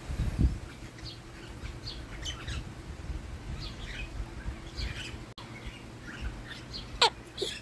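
Several birds chirping with short, high calls throughout, while they gather for thrown bread. About seven seconds in, one loud call sweeps sharply down in pitch. There is a low thump about half a second in.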